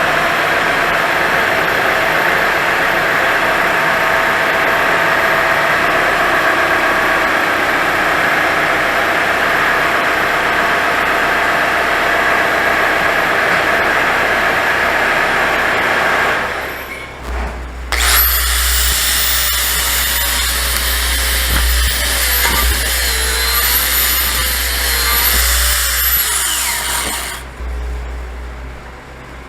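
Power tool working metal: a steady harsh noise for about sixteen seconds. After a short break, a high whine runs for about ten seconds, its pitch wavering up and down, then cuts off near the end.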